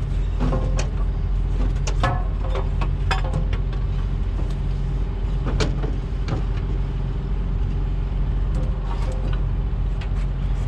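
A steady, low idling engine drone, like a diesel truck engine running nearby, with a constant hum. Scattered short clicks and knocks, about a dozen of them, sound over it, loudest around two and five and a half seconds in.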